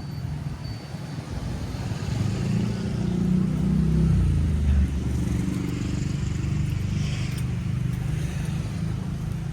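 A motor vehicle passing close by, its engine rumble swelling to a peak about four to five seconds in, then easing back to a steady traffic drone.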